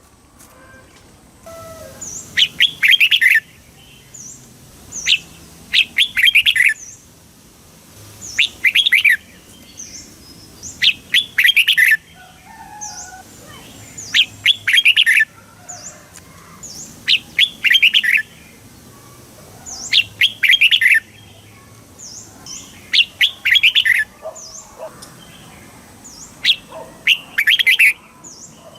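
Red-whiskered bulbul singing: short phrases of rapid, bright notes repeated about every three seconds, with faint high chirps between the phrases.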